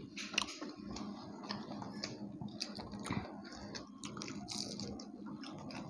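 People chewing and eating fried puri with haleem, heard close: soft wet mouth smacks and many small irregular clicks.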